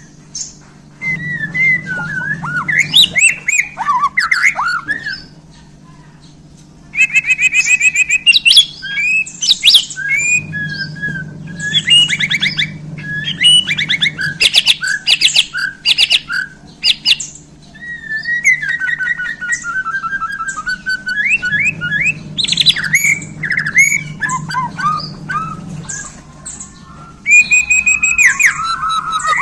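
A Bornean white-rumped shama (murai batu Borneo) singing a varied song of whistles, rapid trills and sharp clicks in phrase after phrase, with a short break about six seconds in.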